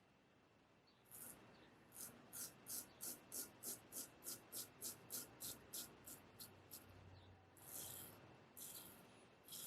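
Straight razor drawn in faint, quick, short scraping strokes, about three a second, for several seconds, then three slower, longer strokes near the end.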